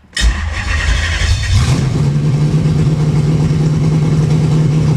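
Toyota 1UZ-FE 4.0-litre V8 on open headers starting on MegaSquirt engine management: it fires abruptly, rough and loud for the first second and a half, then settles into a steady idle.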